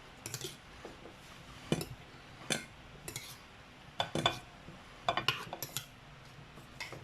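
Eating sounds from a plate of crispy fried boneless milkfish: a string of short crunches and clinks, some coming in quick clusters.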